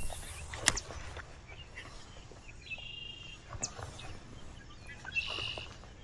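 Two short, high buzzy bird calls, one about three seconds in and one near the end, over faint steady outdoor background noise, with two sharp clicks in the first second.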